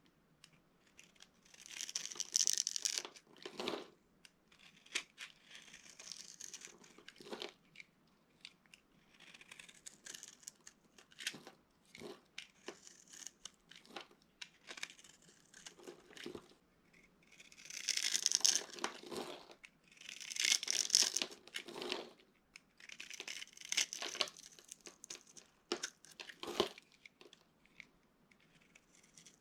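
Dry soap being crushed and broken apart by hand, crackling and crunching in repeated bursts a second or two long, with scattered small snaps between them.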